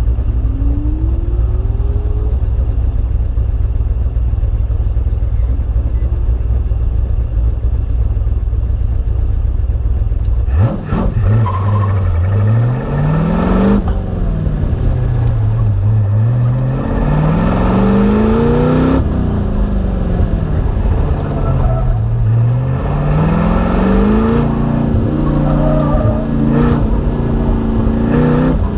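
Sports car engine idling steadily with a low rumble, then launching on an autocross run about ten seconds in. After that the engine revs rise and fall over and over as the car accelerates, lifts and brakes through the cone course, heard from on board the car.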